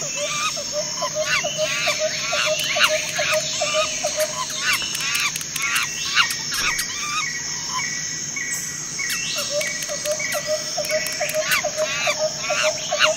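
Jungle ambience of many overlapping bird and animal calls and chirps. A fast, even run of short repeated calls sounds at the start and again in the last few seconds.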